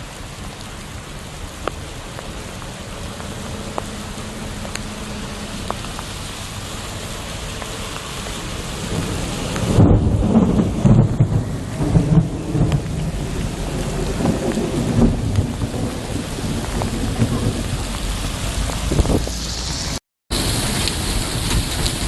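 Steady rain hiss with a few faint drips ticking. About halfway through, a loud crackling thunderclap breaks into a low rumble that rolls on for several seconds and slowly dies away. Near the end the sound drops out for a split second, then the rain comes back.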